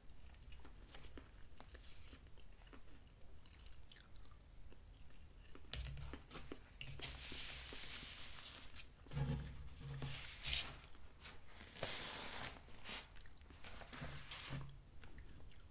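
Close-miked chewing of a soft beef meatball: faint wet mouth clicks, then several louder stretches of hiss and a couple of low thumps about halfway through. A paper napkin rustles near the end.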